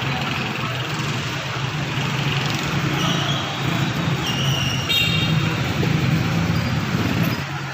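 Car engine running steadily, a low even hum under street and traffic noise.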